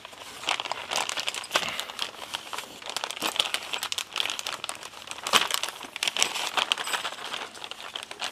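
A bag rustling and crinkling in irregular crackles as something is worked out of it by hand.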